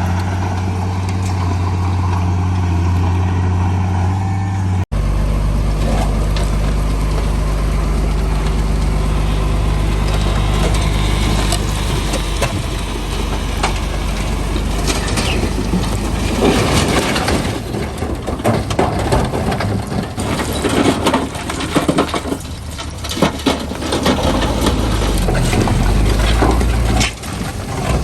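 Heavy diesel earthmoving machinery running steadily, with an abrupt change of engine note about five seconds in. From about halfway on, loose stone clatters and crunches over the engine as rock is moved.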